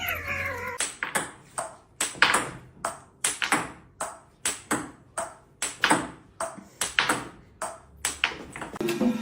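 A short falling meow-like call, then a long series of sharp ringing pings, about two a second.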